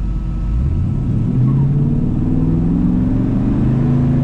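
Small-block V8 of a 1948 Chevrolet Fleetline pulling under throttle through Cherry Bomb mufflers, heard inside the cabin. The revs climb over the first second and a half, then hold steady.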